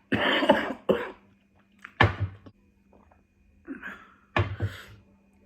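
A woman coughing several times in short, sharp bursts.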